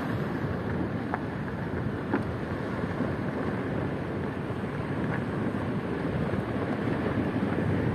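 Wind buffeting the microphone over a steady rush of ocean surf.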